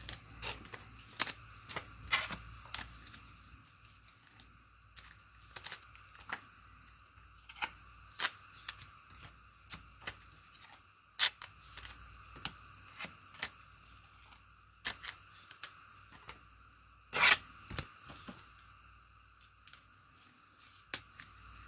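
Trading cards and pack wrappers being handled: scattered light clicks, flicks and rustles of card stock and foil, with one louder short scrape or tear about three-quarters of the way through.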